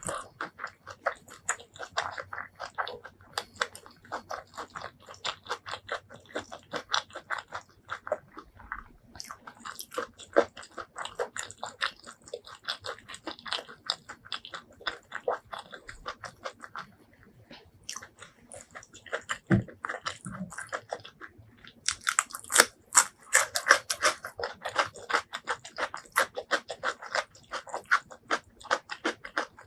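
Close-miked eating sounds: rapid chewing and biting clicks of food in the mouth, with brief lulls and a louder stretch of chewing about two-thirds of the way through.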